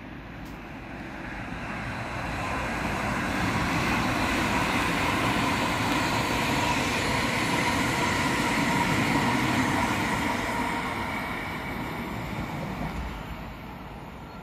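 Red S-Bahn electric multiple unit passing on the line. Its rolling noise and motor hum rise over the first few seconds, hold loud for several seconds, then fade away near the end as the train recedes.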